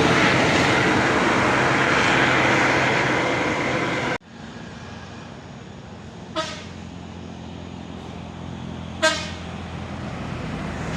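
Heavy vehicle engine and road noise, cut off abruptly about four seconds in, followed by quieter traffic with two short horn toots about two and a half seconds apart.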